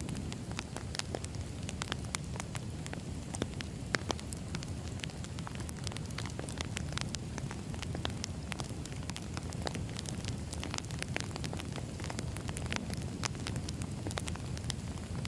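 Wood fire burning: a steady low rumble of flames with irregular sharp crackles and pops from the firewood, two slightly louder pops about four seconds in.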